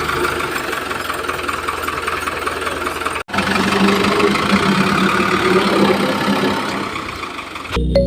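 Engine running steadily with a fast, even knocking beat. It cuts out for an instant about three seconds in and then resumes with a steady hum. Music starts just at the end.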